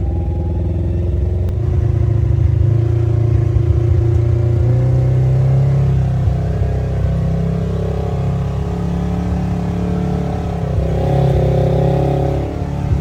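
Side-by-side UTV engine running on the trail, a steady engine note that shifts a little in pitch with the throttle.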